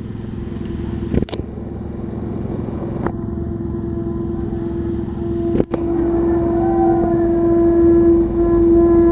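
EMD diesel locomotive approaching with its engine running, a low rumble with a steady whine that grows louder over the last few seconds. Three sharp clicks are scattered through it.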